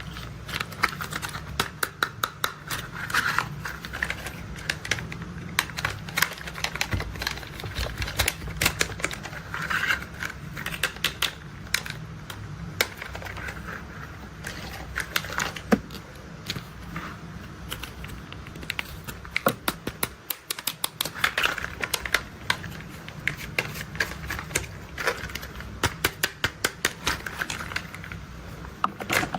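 Hard plastic toy construction vehicles being handled, giving runs of quick sharp clicks and rattles at irregular intervals throughout.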